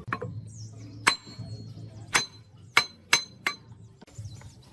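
A hammer striking metal about six times at an uneven pace, the harder blows ringing briefly.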